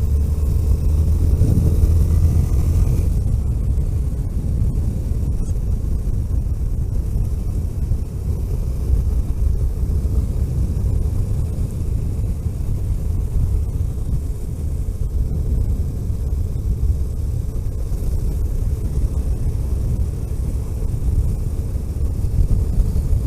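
Vehicle driving on a road: a steady low rumble of engine and road noise. For the first three seconds it is louder, with a pitched hum and a hiss.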